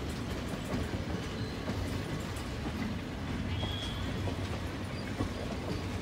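Indian Railways passenger coaches rolling past close by, a steady rumble of wheels on the rails with some clatter.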